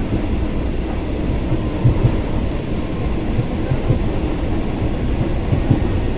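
Moving train heard from inside a passenger carriage of a suburban electric train: a steady rumble, with the wheels clacking over rail joints in quick pairs about two seconds in and again near the end.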